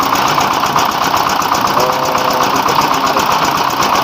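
Rice mill driven by a 24 hp diesel 'dompeng' engine, running steadily with a fast, even pulsing beat under the whir and hiss of the milling machinery.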